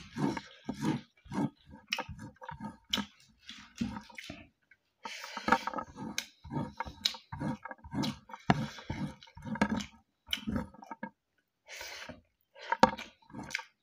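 Close-miked wet chewing and lip smacking of a person eating rice and buffalo curry by hand: a quick run of short smacks and clicks with a few brief pauses.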